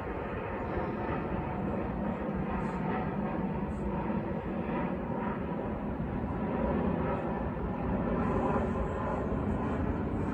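Airplane engines running as an aircraft passes: a steady rushing drone that swells a little about two thirds of the way in.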